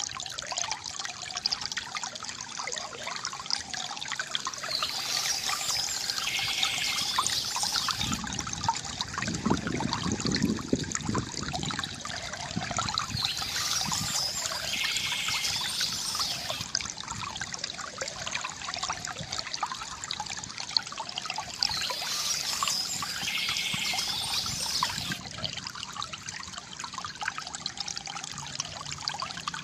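River water trickling and gurgling steadily, with a deeper gurgle swelling up about ten seconds in. Brief high bird chirps come back about every eight to nine seconds.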